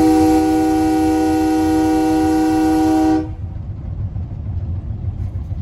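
Train air horn sounding one long blast of about three seconds, a steady chord of several notes that cuts off sharply, as the train approaches a road crossing. A low running rumble of the train continues under it and after it.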